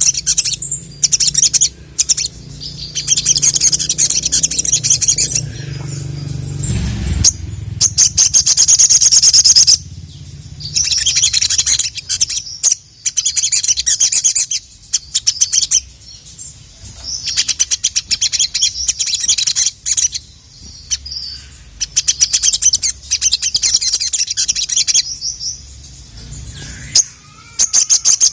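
A sogon (sogok ontong) sunbird singing in full song: repeated bursts of fast, high, rattling chirps, each a second or more long with short pauses between, over a faint low hum.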